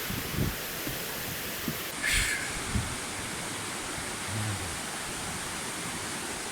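Steady rushing hiss of a flowing creek, with a few low thumps and a brief brighter rustle about two seconds in.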